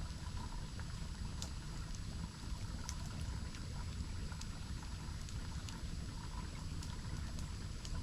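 Steady rush of a waterfall, with scattered small sharp crackles from a campfire.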